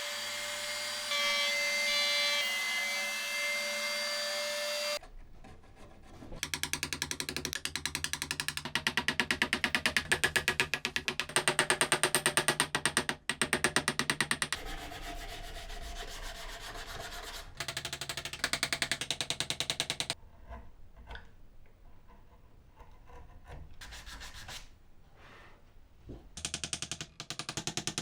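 Wood being sanded and filed: rapid, rhythmic rubbing strokes of abrasive on wood in a string of short takes, some louder and some fainter. For the first few seconds a small power tool whines steadily before the rubbing begins.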